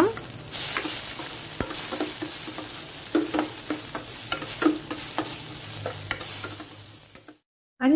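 Chopped onions, tomato, garlic and green chilli sizzling in hot oil in a stainless steel pan while a spatula stirs them, scraping and tapping against the pan now and then. The sound cuts off suddenly near the end.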